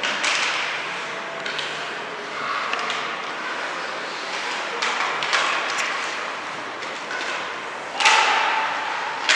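Youth ice hockey game sounds in a rink: steady scraping and arena noise broken by several sharp knocks, the loudest about eight seconds in, like a puck or bodies hitting the boards.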